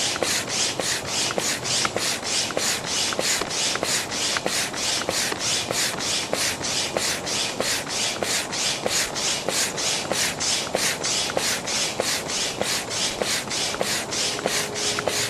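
Manual air pump pumped in quick, even strokes, a short rush of air with each stroke at about two and a half strokes a second, inflating the outer chamber of an inflatable raft.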